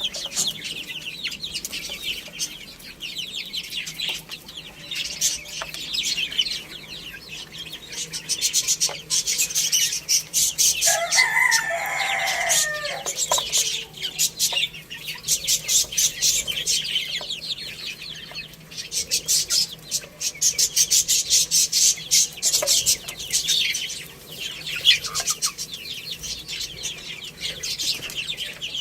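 Chickens clucking, with one rooster crow about eleven seconds in and another starting right at the end. Steady, busy high chirping from small birds runs underneath.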